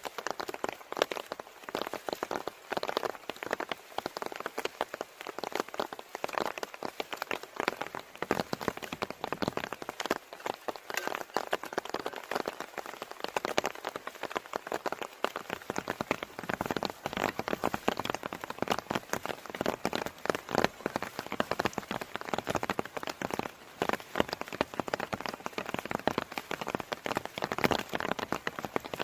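Heavy rain falling, a dense, irregular patter of drops striking a surface.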